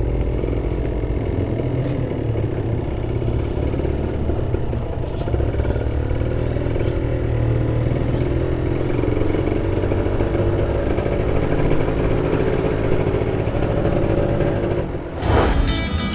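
Motorcycle engine running steadily while riding. Near the end it gives way to strummed acoustic guitar music.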